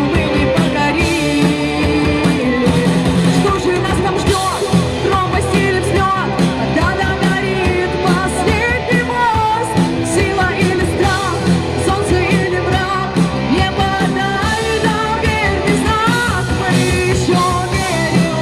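Rock song: a singer's voice over a full rock band, playing at a steady loudness.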